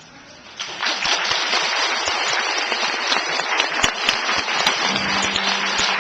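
A small audience clapping, starting suddenly about half a second in and running on steadily.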